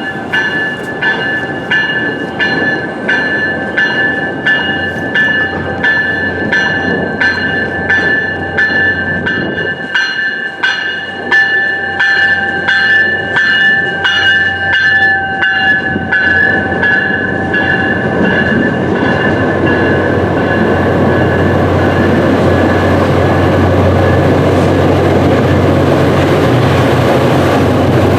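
MBTA commuter rail train rolling along, its wheels clicking over rail joints at an even pace with a steady high squealing ring over them. About halfway through the clicks and squeal fade into a louder, steady rumble with a low hum.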